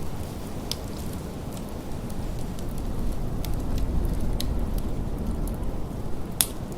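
Wood fire crackling in a fireplace, scattered sharp pops with the loudest one near the end, over a steady low rumble of blizzard wind.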